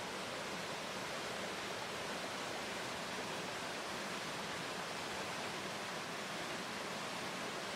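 Rapids and waterfalls on a small Canadian Shield creek: a steady roar of white water that holds level throughout.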